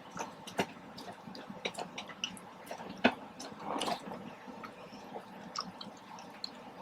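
Close-miked eating: soft wet chewing with scattered mouth clicks and smacks, one louder click about three seconds in.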